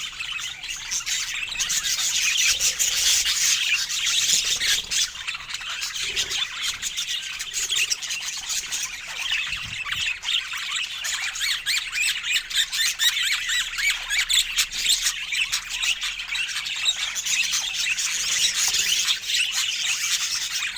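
Pet budgerigars chattering and warbling without a break, a dense run of quick high chirps and clicks.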